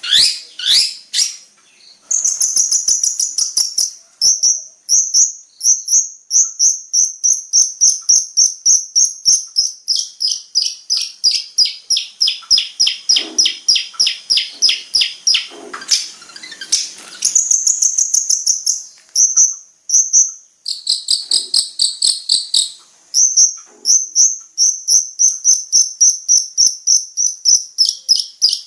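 A long-tailed shrike (cendet) sings a fast, unbroken string of repeated high chirps, about four or five a second. In the middle stretch the notes sweep further down in pitch, then return to the high, rapid chirping.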